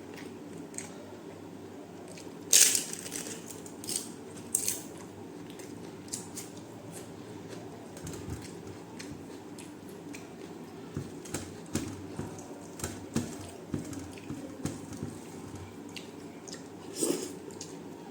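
Close-up eating sounds: wet chewing and mouth smacks in irregular short clicks, with one sharper, louder crunch-like click about two and a half seconds in, over a steady low background hum.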